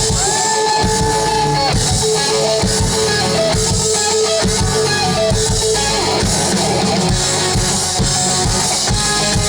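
Live rock band playing an instrumental passage: guitar over a drum kit, with long held, bending guitar notes.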